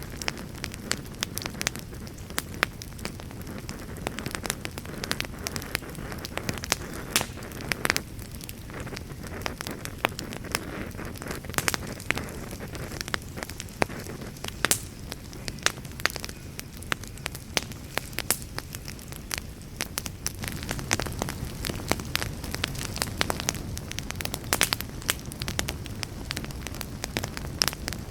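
Wood fire burning in a fireplace: a steady low rumble and hiss with frequent irregular crackles and pops.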